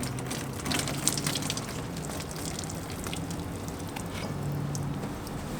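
Water splashing and trickling, busiest in the first couple of seconds, over a steady low hum.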